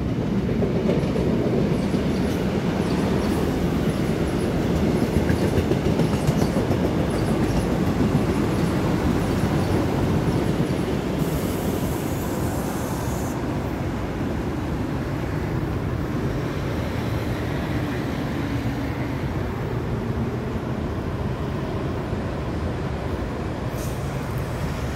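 A train running past on the tracks below, a steady rumble of wheels on rail, with a brief high hiss about eleven seconds in.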